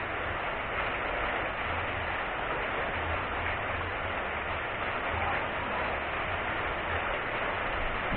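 Steady rain falling on the reservoir's surface: an even, unbroken hiss.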